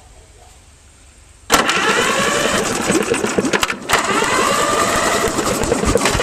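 Electric starter cranking the Centaur KV tractor's engine. It kicks in suddenly about a second and a half in and turns the engine over with a fast rhythmic pulse and a starter whine, pausing briefly partway through. The engine does not fire because the carburetor is still off; it is being cranked to check the spark.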